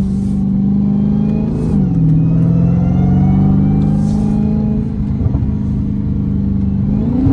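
Supercharged 6.2-litre Hemi V8 of a Dodge Hellcat with a mid-muffler delete, running at a steady cruise. The engine note drops a little just under two seconds in and climbs again near the end.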